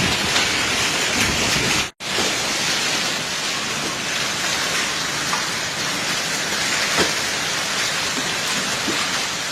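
Heavy rain and hail pouring down in a dense, steady hiss, cutting out for an instant about two seconds in.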